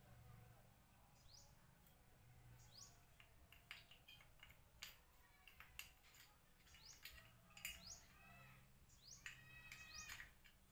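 Faint bird chirps, short rising calls repeated throughout and a quick chirp series near the end, over a low steady hum. A few light clicks, like small taps of metal, come in between.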